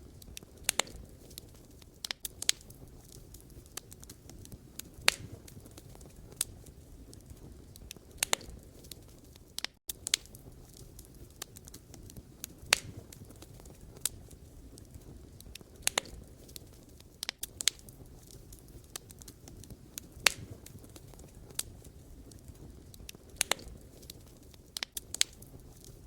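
Wood fire crackling: irregular sharp pops and snaps from burning logs over a low, steady rumble of flame. The sound cuts out for a split second about ten seconds in.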